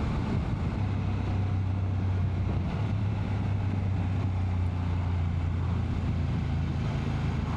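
BMW F850 GS Adventure's parallel-twin engine running at a steady cruise, with wind noise on the microphone.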